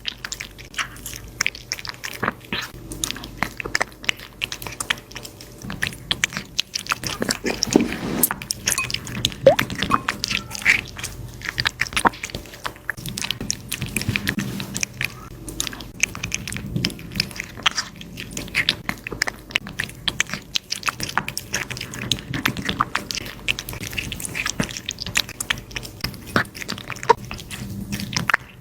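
An animal eating crunchy food: a steady run of quick, crisp bites and chewing clicks.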